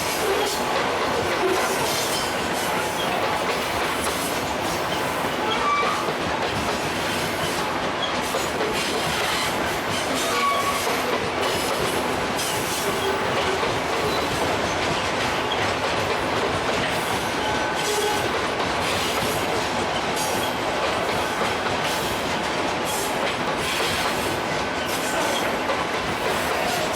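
Freight train wagons rolling past, wheels clacking over the rail joints, with a few brief high squeals of wheel on rail.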